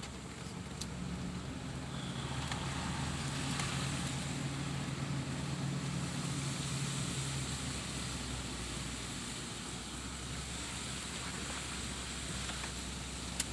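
A vehicle's engine running steadily at low speed, with an even rushing noise over it and a single sharp click near the end.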